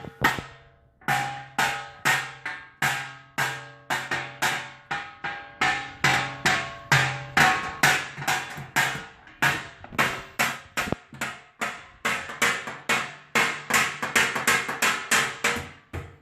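A steady run of banging strikes on something that rings briefly, like a drum or another struck object, about three a second, each with a short pitched ring that dies away quickly.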